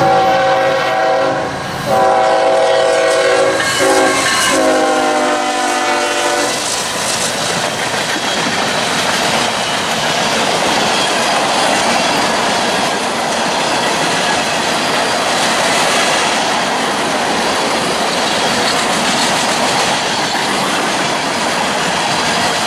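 Locomotive horn sounding the grade-crossing pattern, two long blasts, a short one and a long one, over about the first six seconds. Then the train rolls past with a steady rumble and the clatter of its wheels on the rail joints.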